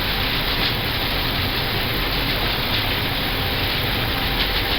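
Airbus A320neo landing rollout heard from the cockpit: a steady rushing noise of the engines in reverse thrust over a low runway rumble as the jet decelerates after touchdown.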